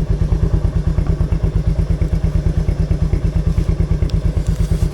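Royal Enfield Meteor 350's single-cylinder engine idling, with an even exhaust thump about seven times a second.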